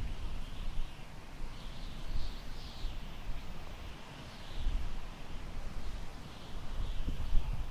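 Warm wind gusting through tall grass, with a low rumble from the wind buffeting the microphone that swells and eases. Faint, high chirping calls repeat in the background.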